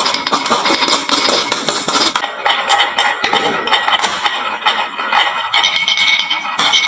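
Many glass marbles rolling down a wooden marble-run slope, with a dense, continuous clatter of clicks as they knock against the wooden track and each other and drop into toy trucks.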